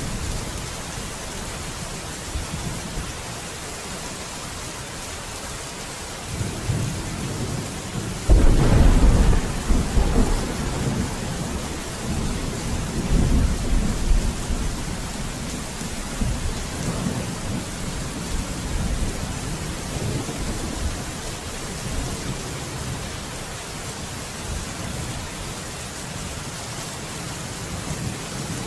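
Steady rain falling during a thunderstorm. Thunder starts to rumble about six seconds in, then a loud clap about a third of the way through rolls on in deep rumbles for several seconds before fading back under the rain.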